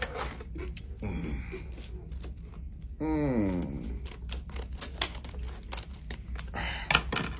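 Close-up chewing of hard, crunchy popcorn-flavoured candies: a dense run of irregular crunching clicks. About three seconds in, a short hummed 'mm' from the eater, falling in pitch.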